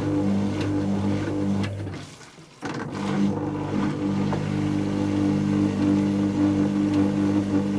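Dyson Contrarotator CR01 washing machine running mid-cycle: a steady motor hum with several fixed tones. The sound drops away for about half a second a little after two seconds in, then the motor runs on.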